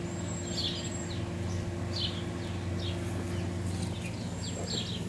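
Birds chirping in the background: short, high, downward chirps every second or so, over a steady low hum.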